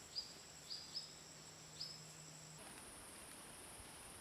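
Countryside ambience: a steady high insect trill, with four short high bird chirps in the first two seconds. About two-thirds in, the trill changes to a higher-pitched one.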